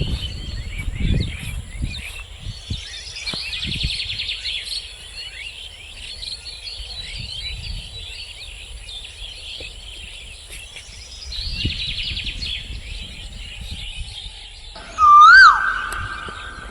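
A chorus of many small birds chirping and chattering over one another, with some low rumble in the first few seconds. Near the end a loud siren starts up, wailing up and down.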